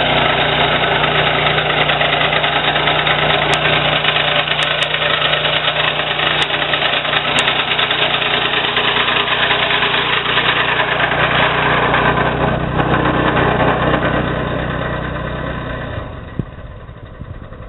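6.5 hp Kohler single-cylinder four-stroke engine of a self-propelled sod cutter running steadily under load as the machine cuts turf. The engine dies down near the end and stops about three seconds before the end.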